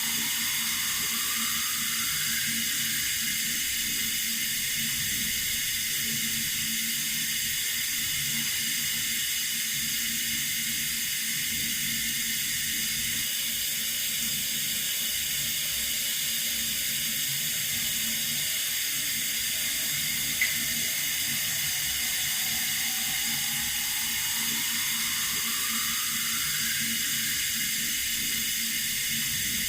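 Water running steadily from a tap, a hissing stream. A faint rising tone sounds twice, and there is a single click about two-thirds of the way through.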